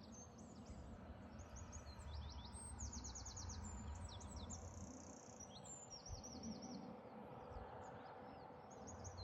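Songbirds singing faintly: several overlapping series of high, rapid trills and chirps, over a low steady background rumble.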